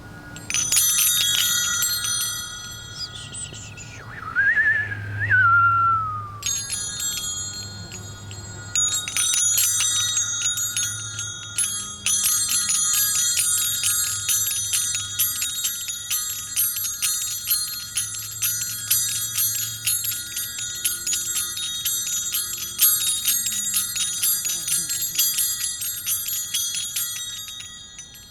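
Metal chimes rung in a dense, continuous shimmer of many high ringing tones, struck rapidly over and over, with a first burst at the start and steady jingling from about a third of the way in. A short whistling glide falling in pitch sounds a few seconds in.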